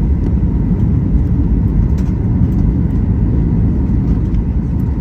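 Steady low rumble of an airliner in flight, heard from inside the cabin: engine and airflow noise.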